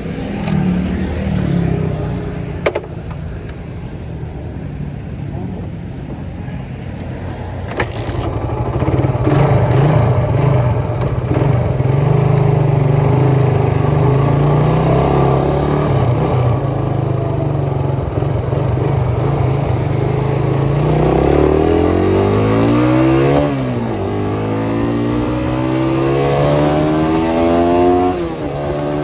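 Suzuki Satria FU 150 single-cylinder four-stroke engine through an aftermarket Thai-made CBU exhaust, running steadily and getting louder about eight seconds in. Near the end it revs up with rising pitch, drops sharply, climbs again and drops once more, as the bike accelerates through the gears.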